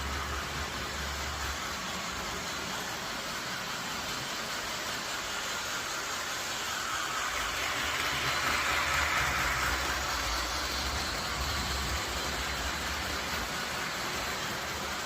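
Train running with a steady rolling noise that grows louder about halfway through and then eases off.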